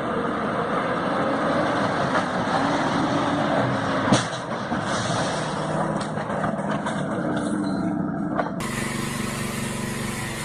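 Vehicle driving, a steady run of road and engine noise, with one sharp knock about four seconds in. The sound changes abruptly near the end.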